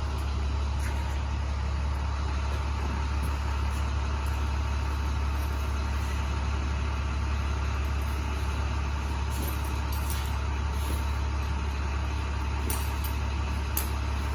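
Vehicle engine idling steadily with a constant low hum, a few faint light ticks near the end.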